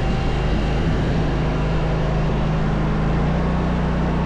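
Engine of a snow-plowing vehicle running steadily under load, with a dense rushing noise over it. Its engine note shifts slightly about three seconds in.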